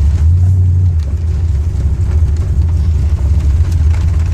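Truck engine running steadily at cruise with a deep, even rumble, heard from inside the cab.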